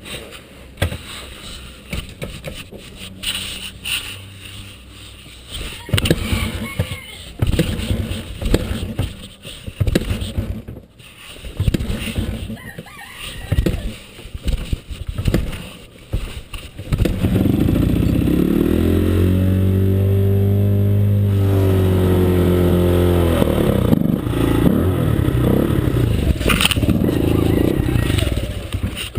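Honda XR100 dirt bike's single-cylinder four-stroke engine being kick-started: irregular clanks and knocks from the repeated attempts, then about 17 seconds in the engine catches and keeps running. It revs up and settles back down, then idles steadily.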